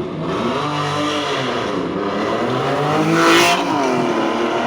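Performance car engine revving hard, its pitch rising and falling several times as the car accelerates and lifts off. It is loudest a little past three seconds in, with a brief hissing rasp.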